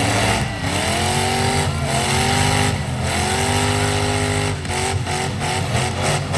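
Derby trucks' engines revving hard three times, the pitch climbing and then holding each time. A few sharp knocks come in the second half, the sound of vehicles hitting each other.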